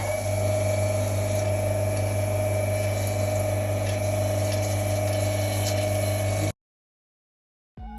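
Water-cooled lapidary grinding wheel running: a steady motor hum with a constant whine over a wash of noise, cutting off abruptly about six and a half seconds in.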